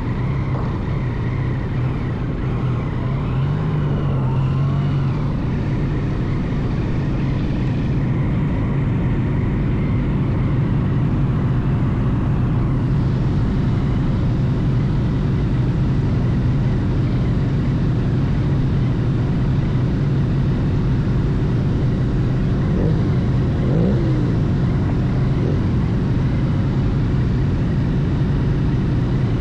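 Yamaha MT-09 SP's inline three-cylinder engine running at a fairly steady pitch, rising briefly a few seconds in, over a continuous rushing noise.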